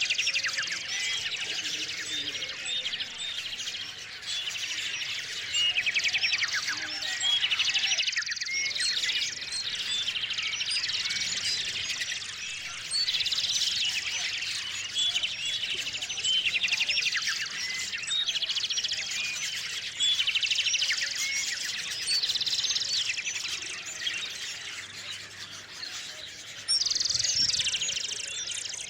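Small songbirds chirping and trilling in a dense, continuous chorus of many overlapping calls, with rapid trills recurring every few seconds.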